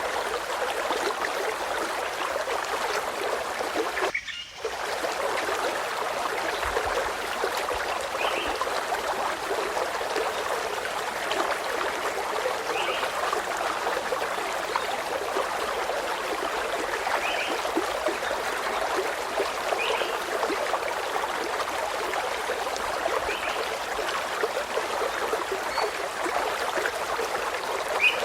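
Steady rush of flowing stream water, with short, faint bird chirps every few seconds and a brief dip in the water sound about four seconds in.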